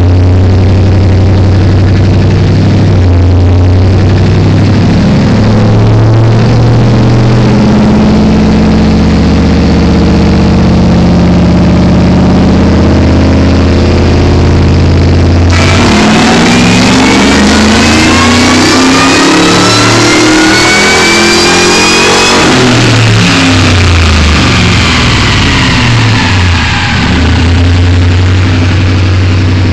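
Supercharged 5.4-litre V8 of a 2002 Ford F-150 SVT Lightning with custom-ground cams, running on a dyno. It runs steadily at low revs, then about halfway through opens up into a full-throttle pull with a rising supercharger whine for about seven seconds, before the revs and whine fall back to a steady low idle.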